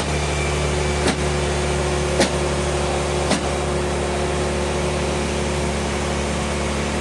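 Sawmill machinery running with a steady low hum, with three sharp clicks about a second apart in the first half.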